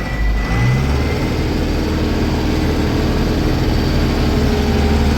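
Case 995 XL tractor's diesel engine running, picking up revs in the first second and then holding a steady note.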